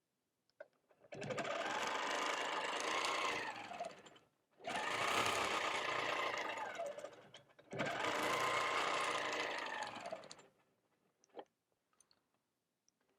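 Longarm quilting machine stitching in three separate runs, its pitch rising and falling as the stitching speeds up and slows along each line, followed by a single short click near the end.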